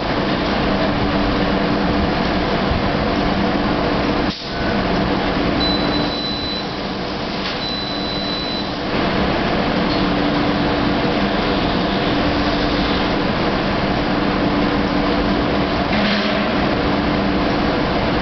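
MLR electric multiple unit standing at the platform, its onboard equipment humming steadily under a constant hiss. Two short high beeps sound about a third of the way in.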